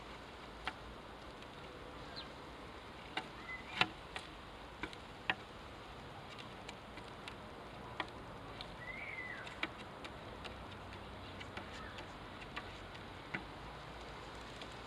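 Scattered sharp ticks at uneven intervals, with two short house sparrow chirps, one a little over three seconds in and one rising and falling at about nine seconds.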